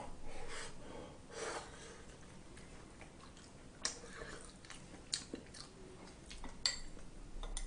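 A man chewing a mouthful of food, with a few sharp clicks of chopsticks against the dishes in the second half.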